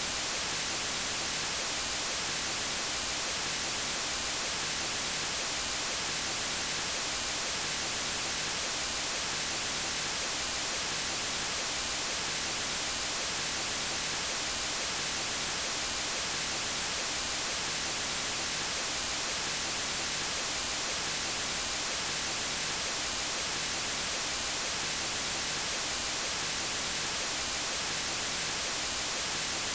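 Steady, unchanging white noise: an even hiss weighted toward the high end, with no other sounds.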